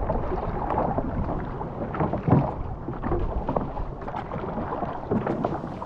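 Outrigger canoe under way: paddles splashing irregularly in the water, with wind buffeting the microphone as a low rumble.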